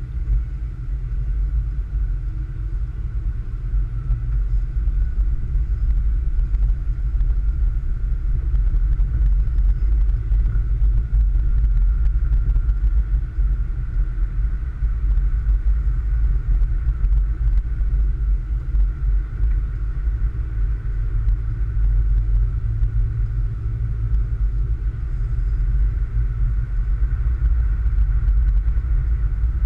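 Car driving: a steady low rumble of engine and road noise, with faint steady tones above it.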